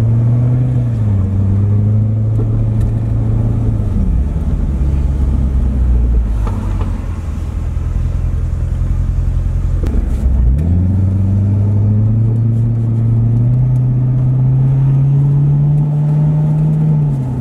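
C7 Corvette's V8 engine heard from the open-top cockpit as the car is driven: the engine note rises at first, steps down about a second in and falls off around four seconds. It runs low for several seconds, then from about ten seconds in the revs climb steadily under acceleration before easing off near the end.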